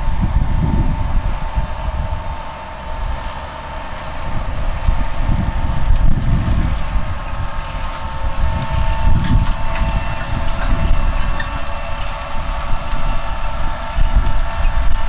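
Case IH Magnum 305 tractor running while pulling a John Deere MaxEmerge planter through the field: a low rumble that swells and eases every few seconds, with a steady high whine over it.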